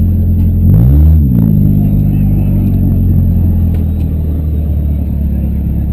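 Demolition derby car engines running steadily, with one engine revving up and dropping back down about a second in.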